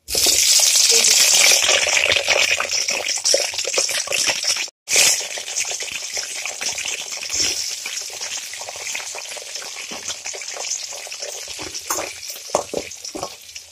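Small whole stuffed brinjals frying in hot oil in a metal kadai: a steady sizzle with the clicks and scrapes of a spatula stirring against the pan. The sizzle is loudest in the first couple of seconds, breaks off for a moment about five seconds in, then carries on more softly.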